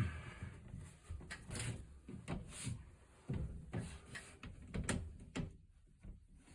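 Irregular light knocks and clicks, about a dozen spread over several seconds, from something being handled.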